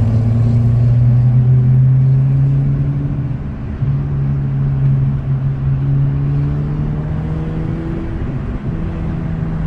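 Honda Civic Sport with its muffler deleted, engine and exhaust droning under way, the pitch rising slowly, breaking briefly about three and a half seconds in, then holding steady.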